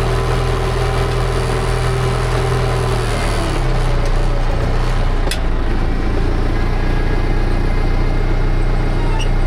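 Tractor engine running steadily, pulling a disc harrow across a field; its tone shifts slightly about three and a half seconds in, and the sound cuts off abruptly at the end.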